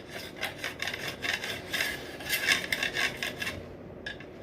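Quick, irregular scraping and rasping strokes: old silicone being scraped out of the channel of a sliding shower door's frame.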